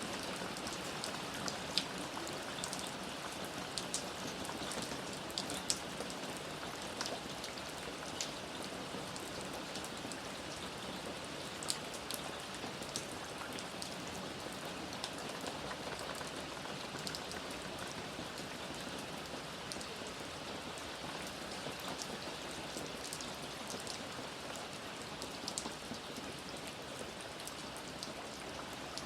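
Steady rain with individual drops pattering and ticking sharply on a surface.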